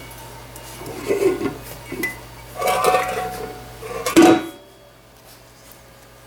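Metal pans clattering and clinking in several irregular bursts, loudest a little after four seconds in, then settling quieter.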